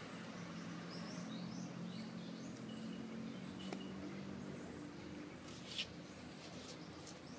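Small birds chirping: short, high chirps repeating over a steady low hum, with a brief rustle about six seconds in.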